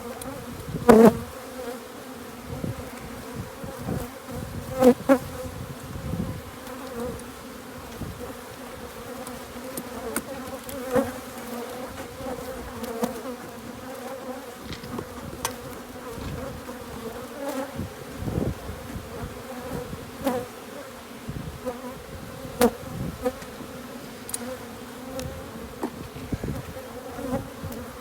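Honeybees from an opened hive buzzing steadily in a swarm-like hum, with several sharp knocks and clicks, the loudest about a second in and again about five seconds in.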